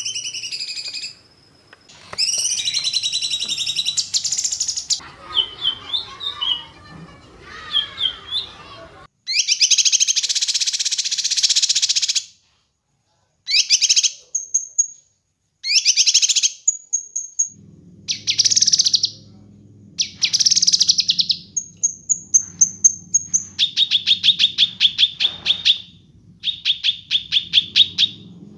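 Songbird song for bird training: bursts of fast, buzzy trills and high, thin whistled notes, broken by two short dead-silent gaps. A low hum joins in past the middle. Near the end come long rows of rapid repeated notes at one pitch.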